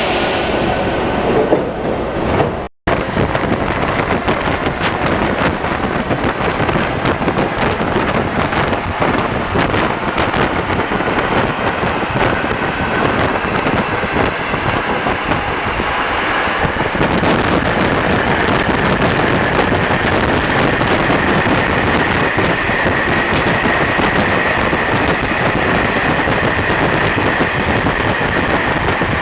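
Rubber-tyred Alstom NS-74 metro train running, a steady rush of running noise with a faint steady whine in the later part. The sound cuts out completely for a moment about three seconds in.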